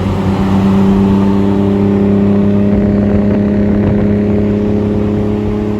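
V6 car engine running at steady revs, a constant drone that holds one pitch.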